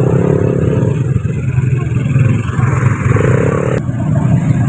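Truck engine running with a steady low drone. A higher engine note comes in briefly twice, and the second cuts off abruptly.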